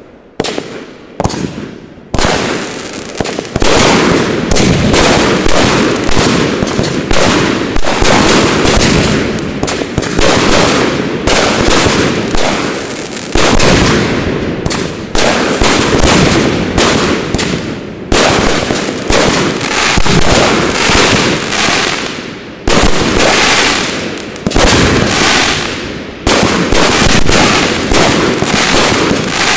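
Aerial fireworks bursting: a few separate bangs in the first two seconds, then a dense barrage of overlapping bangs and crackles with only brief lulls.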